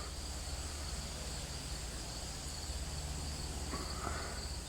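Steady high-pitched chorus of insects trilling, with a faint brief sound about four seconds in.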